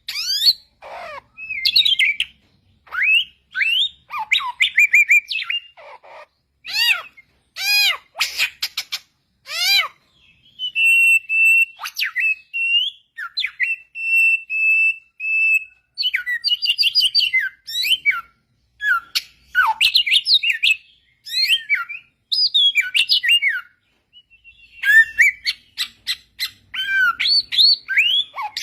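A samyong bird singing: a varied string of clear whistled notes, up- and down-sweeping slurs and quick chattering runs in short phrases. Partway through it holds a steady whistle for a few seconds, with a faint fast trill above it.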